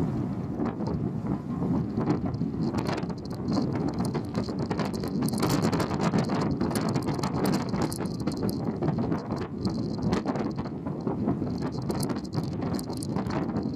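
Wind buffeting the microphone on board a moving car ferry, over a steady low rumble of the ship and rushing water, with constant crackling throughout.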